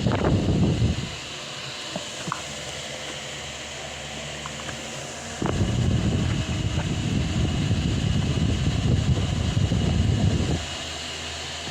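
Delta Gold 50 cm four-blade wall fan running with a steady whir, its airflow buffeting the microphone in loud low rumbles twice: up to about a second in and again from about five and a half seconds to ten and a half.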